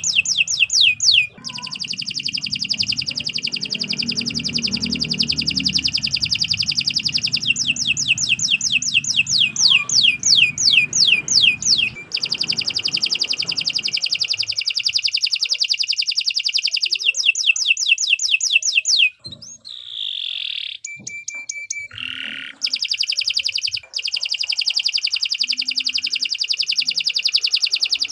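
Domestic canary singing a long, unbroken song of rapid high trills, switching between fast rolls and runs of separate down-sliding notes, with a few short breaks and different notes in the last third.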